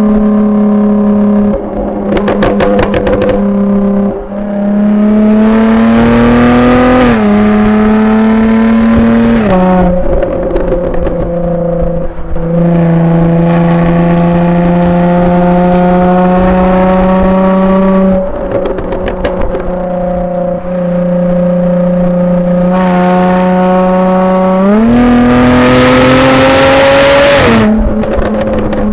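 Jaguar F-Type V6 S's supercharged 3.0-litre V6 through its factory exhaust in Dynamic mode, pulling up through the revs with the pitch dropping sharply at each gear change. Twice, a few seconds in and again about two-thirds through, it lets off into a quick string of exhaust pops and crackles, and near the end it pulls hardest and loudest before a shift.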